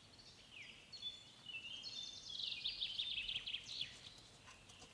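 Small songbirds calling in woodland: high chirps and short glides, with a quick run of rapid notes around the middle.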